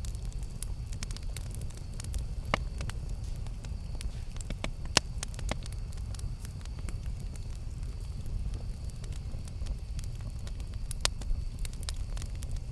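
Campfire burning with a steady low rumble and scattered sharp crackles and pops from the wood, the loudest pops about two and a half and five seconds in.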